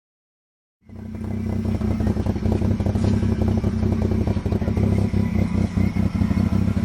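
A vehicle engine running at a steady speed, with a low, rapidly pulsing note, cutting in abruptly about a second in.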